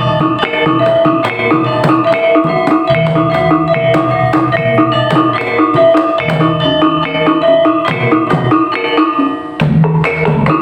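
Topeng Ireng dance accompaniment: drums and tuned struck percussion playing a fast, repeating rhythmic pattern, which briefly breaks and shifts near the end.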